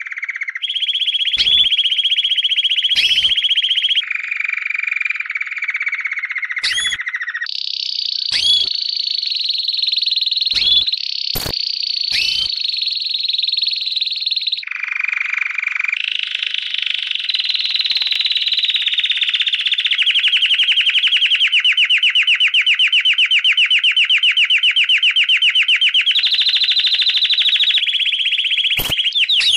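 Lovebird's long 'ngekek' chatter: a loud, unbroken, rapid trilling that switches abruptly between trill types every few seconds, with short sharp chirps cut in during the first half. About halfway through it settles into one long, fast-pulsed trill.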